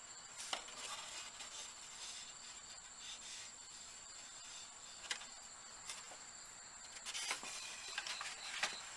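A few light, scattered clicks of small motorcycle carburetor parts being handled and set down, over a faint, steady, high-pitched trill of crickets.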